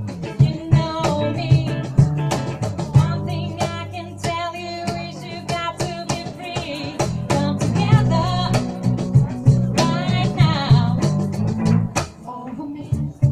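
Band music: electric guitar and bass guitar over frequent drum hits, with a wavering melodic line that may be a voice or a bent guitar note.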